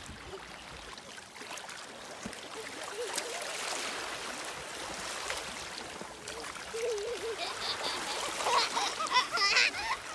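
Stream water running steadily over rocks. Near the end a few short, wavering high-pitched sounds rise above it.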